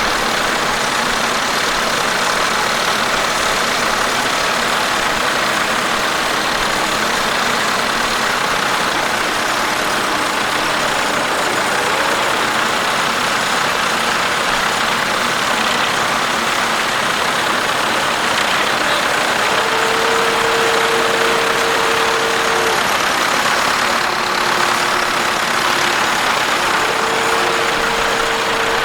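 Tractor engine running steadily, with a steady droning note that comes in about two-thirds of the way through and again near the end.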